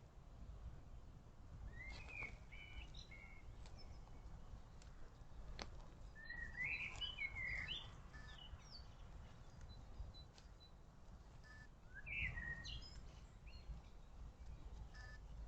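A songbird singing in three short phrases of quick chirping, sliding notes, with a steady low rumble underneath and a single sharp click near the middle.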